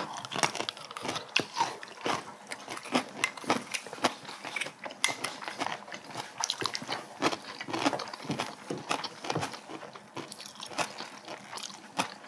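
Close-miked eating of spicy braised cod head: chewing and crunching, with many irregular sharp clicks.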